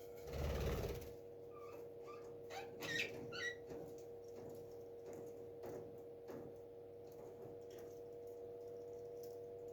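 A parrot in its nest: a brief scuffling rustle, then a few short chirps, with scattered light scratching and a steady hum underneath.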